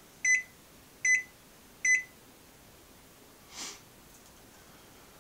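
Microwave oven beeping at the end of its heating cycle: three short, high, evenly spaced beeps about 0.8 s apart. A brief soft hiss follows about three and a half seconds in.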